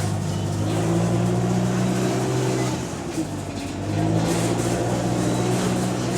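Bus engine pulling under load, easing off about three seconds in and then pulling again, on a bus with an exhaust leak.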